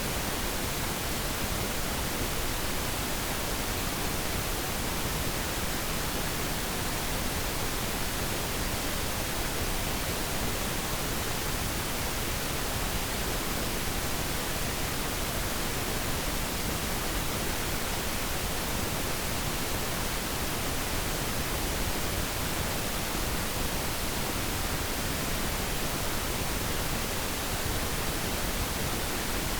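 Steady pink noise: an even hiss across all pitches, with less treble than white noise and no changes.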